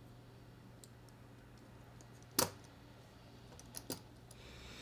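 Small metal parts of a folding pocketknife clicking together as the blade is fitted onto the titanium scale: one sharp click about halfway through, then two smaller clicks close together over a second later, with a few faint ticks around them.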